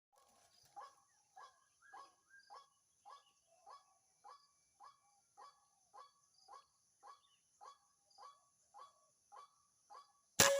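A bird calling in a steady series of short, evenly repeated notes, nearly two a second. Near the end a single loud, sharp shot from a hunting air rifle cracks out.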